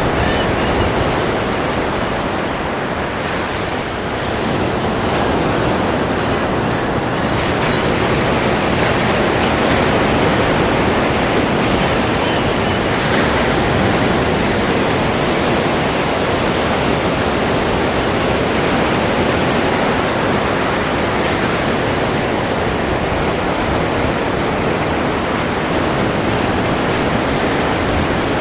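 Ocean surf: a steady, continuous rush of breaking waves that swells and eases slightly.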